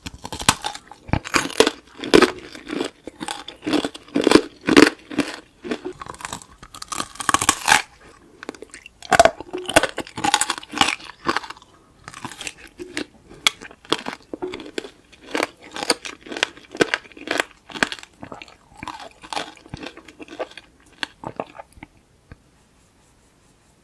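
Close-miked crunching and chewing of tanghulu: hard-cracked sugar candy shell on fresh fruit, crackling sharply in bite after bite before stopping near the end.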